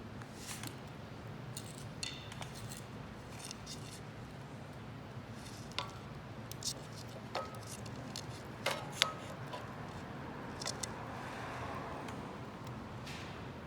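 Homemade wood-burning can stove in use: scattered sharp pops and light metallic clinks, some ringing briefly, over a low steady background.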